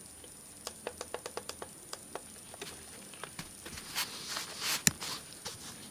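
Plastic clicks and handling noises from a toy remote-control helicopter and its controller being fiddled with: a quick series of sharp clicks, then rustling and one loud click near the end. No rotor or motor runs.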